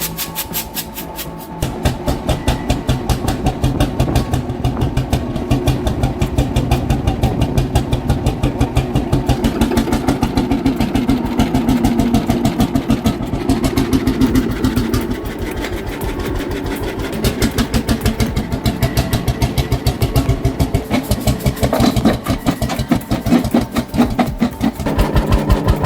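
Small 16-horsepower stationary diesel engine running, with a fast, even train of firing beats. The loudness dips briefly a few times.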